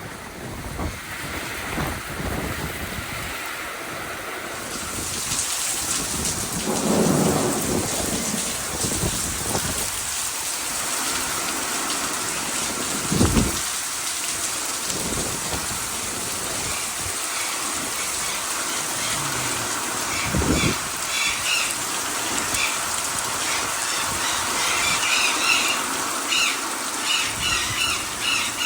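Heavy monsoon rain and wind, getting louder about five seconds in and staying steady, with low rumbles of thunder three times. Short high chirps come through the rain near the end.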